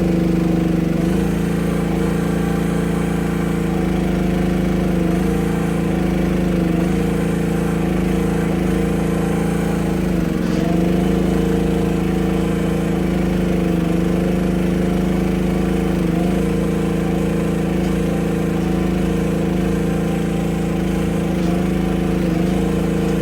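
Small engine running steadily at a constant speed, with slight wavers in pitch now and then.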